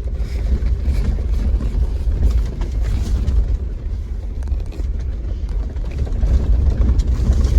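Off-road vehicle driving over a rough dirt trail, heard from inside the cab: a steady low rumble with scattered knocks and rattles from the bumps.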